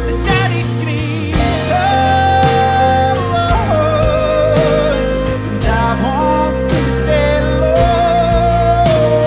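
A rock band playing live: drums keeping a steady beat and bass under long held melody notes with vibrato that step between a few pitches, most likely sung.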